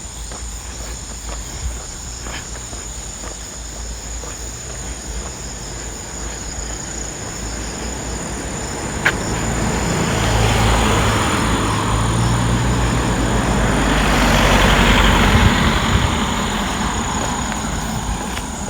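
A car passes on the road, growing louder from about halfway, peaking, then fading near the end. A steady high insect drone and light footsteps run underneath.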